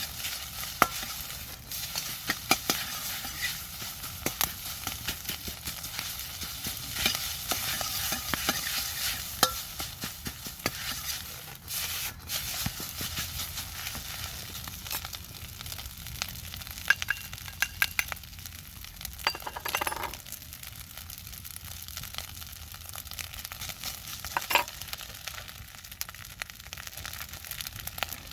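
Fried rice sizzling in a wok while being stir-fried, with a utensil repeatedly scraping and clacking against the pan.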